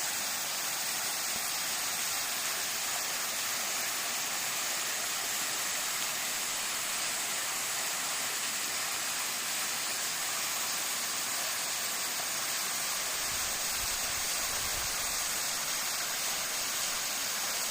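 Water of the Fonissa waterfall falling and splashing in a steady, even rush.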